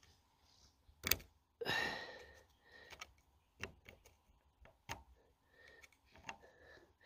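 A handful of sharp metallic clicks and knocks as parts and tools are handled while stripping the valve gear of a Ruston Hornsby single-cylinder diesel, the loudest about a second in, with a brief rustle just after.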